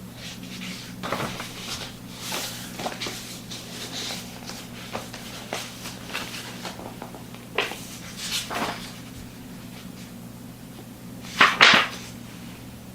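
Irregular rustling and handling noises, with a louder rustle near the end, over a steady low hum.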